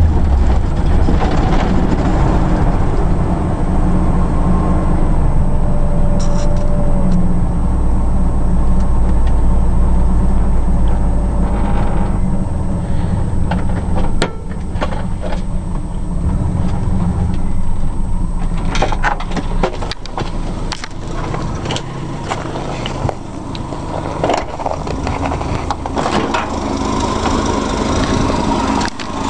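1976 AMC Pacer's straight-six engine running at idle just after a cold start at 6°F. It runs loudest for the first dozen seconds and then eases off somewhat. Scattered clicks and knocks come through in the second half.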